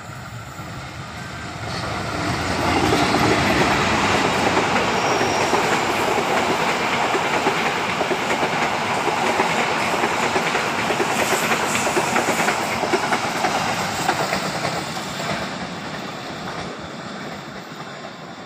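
Train passing by, its wheels clattering over the rails, growing louder over the first three seconds, staying loud, then fading away from about fourteen seconds in.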